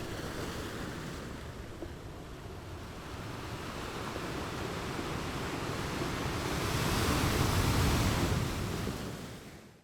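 Ocean waves breaking against rocks, a steady rush of surf that swells to a crash about seven to eight seconds in, then fades out at the very end.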